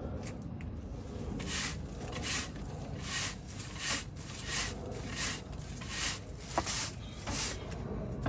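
Broom sweeping: a run of about nine brisk swishing strokes, roughly one every 0.7 seconds, with a sharp click partway through, over a steady low background rumble.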